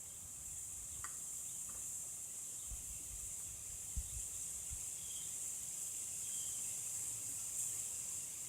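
Steady high-pitched chirring of insects, such as crickets, with a few faint low knocks about one, three and four seconds in.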